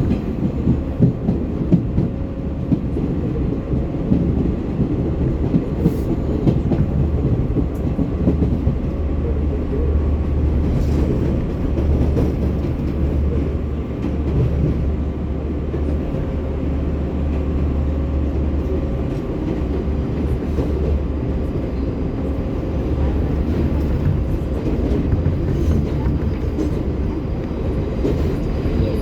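An R188 subway train on the 7 line running at speed between stations. The wheels rumble steadily on the rails, with some sharp clatter in the first couple of seconds.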